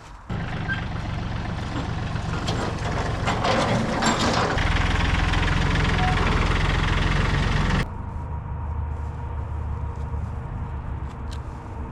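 A vehicle engine running, louder and harder for about three seconds midway, then easing back to a steady lower run.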